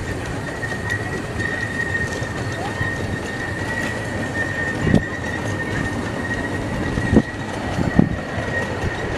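A 15-inch gauge live steam train rolling past, its wheels giving a steady high-pitched squeal over the rumble of the cars. Sharp clanks come about five, seven and eight seconds in.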